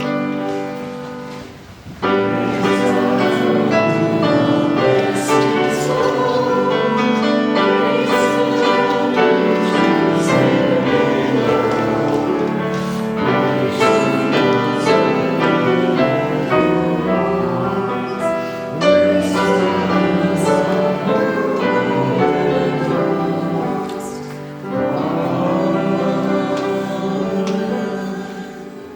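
Voices singing a hymn together with piano accompaniment, starting about two seconds in and fading near the end.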